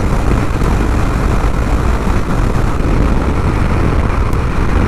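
Harley-Davidson motorcycle running at road speed: a steady low engine drone under a constant rush of wind noise.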